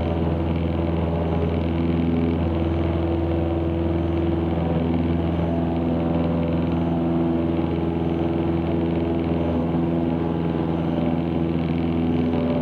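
Cessna 162 Skycatcher's four-cylinder Continental O-200 engine and propeller running steadily at takeoff power in the climb after lift-off, heard from inside the cockpit as an even, unchanging drone.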